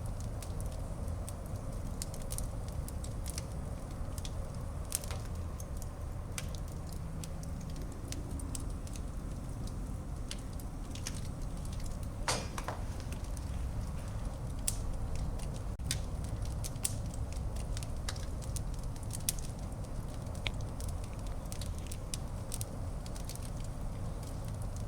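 Wood fire burning in a fireplace: a steady low rumble of flames with scattered crackles and sharp pops, and a brief longer flurry of crackling about halfway through.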